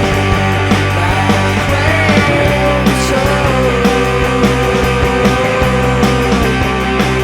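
Rock band playing in a grungy, psychedelic style: dense guitars and bass over a steady drum beat, with a wavering held lead melody on top.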